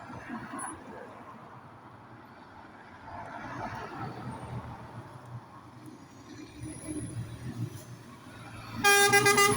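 Road traffic passing, then near the end a vehicle horn sounds one loud, steady toot that carries on past the end.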